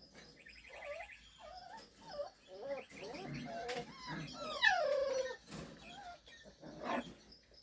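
Six-week-old doodle puppy whimpering, with many short high squeaks and one longer falling whine about halfway through.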